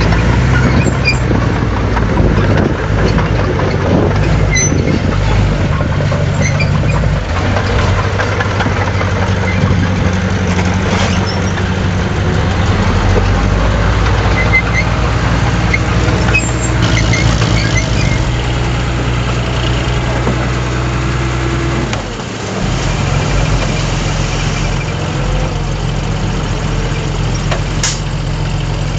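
Heavy diesel earthmoving machinery running steadily under work. The engine note shifts several times, with a brief drop about 22 seconds in.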